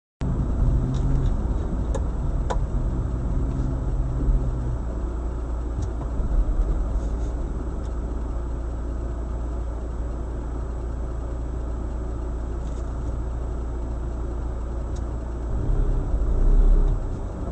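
Car engine and road noise running steadily, with a low hum during the first few seconds and a few faint clicks; it swells a little near the end.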